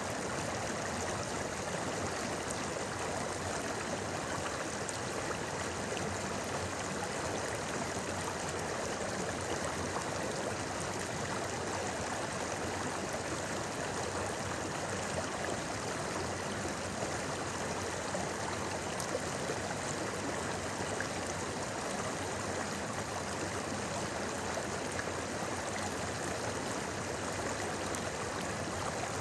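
A shallow river babbling and gurgling steadily over stones, an even rushing flow with fine splashing detail.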